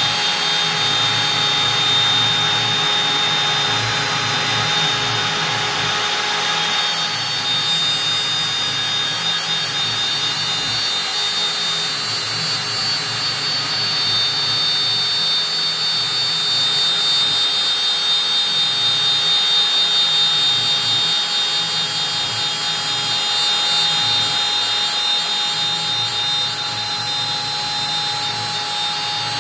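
Stepcraft M1000 CNC router spindle running at about 25,000 rpm, its 4 mm up-down compression bit cutting through beech: a steady high whine over coarser cutting noise. The cutting noise eases off about seven seconds in, while the whine goes on.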